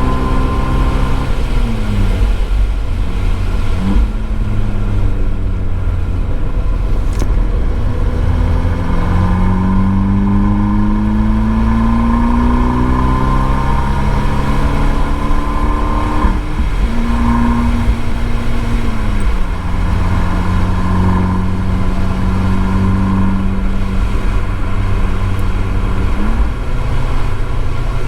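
Abarth 595 Esseesse's turbocharged four-cylinder engine through an Akrapovič exhaust, driven hard on a circuit: the engine note rises and falls with throttle and gear changes, with one long climbing pull in the middle that ends in a sudden drop. A steady low road and tyre rumble runs underneath.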